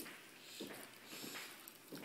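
Faint, soft mouth and nose sounds of a person chewing food, repeating about every two-thirds of a second.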